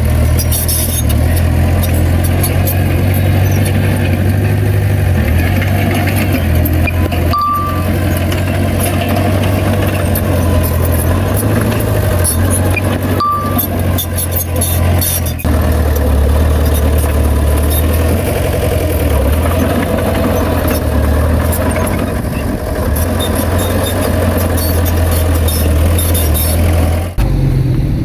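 Heavy diesel earthmoving machine running steadily under load, a deep engine drone with a constant clattering rattle over it. Two short high beeps sound, about six seconds apart.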